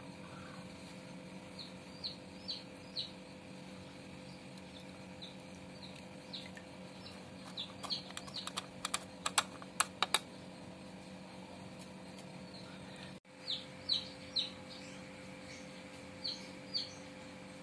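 Small birds chirping faintly in short falling notes, in little groups of two or three, over a steady low hum. About halfway through comes a quick run of sharp clicks.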